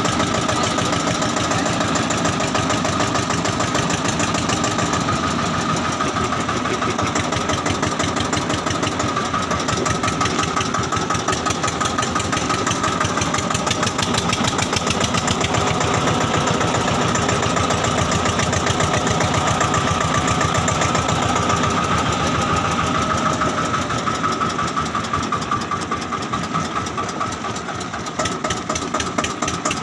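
Tractor engine running steadily with an even, rapid pulsing beat during a ride. It eases off slightly a few seconds before the end, then picks up again.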